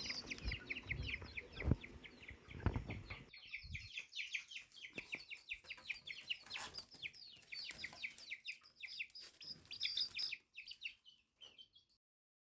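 Birds chirping faintly: a rapid, dense stream of short high chirps, many a second, with a few low thumps in the first three seconds. The chirping stops abruptly near the end.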